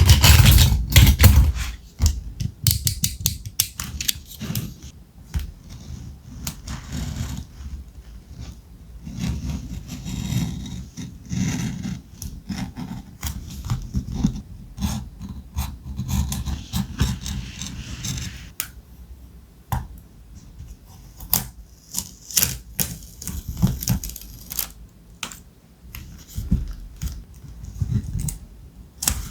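Close-up handling of thick vintage ephemera paper: crackly rustling, scraping and sharp clicks as sheets and cut pieces are moved and pressed down. The loudest, densest rustle comes in the first two seconds, with another run of sharp clicks a little past two thirds of the way through.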